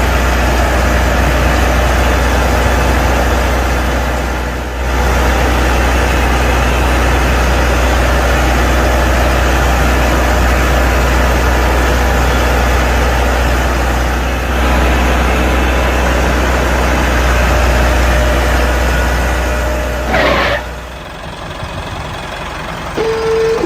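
A tractor-type engine running steadily, with a strong low hum, dipping briefly twice. It falls away sharply about 21 seconds in, just after a short rising tone.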